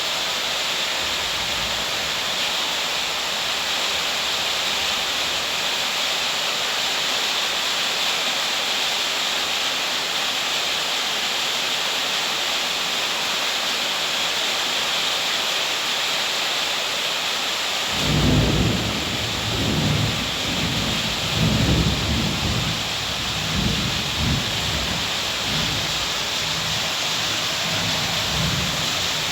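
Heavy rain falling in a steady hiss. About two-thirds of the way through, thunder breaks suddenly and rumbles on in several rolling swells.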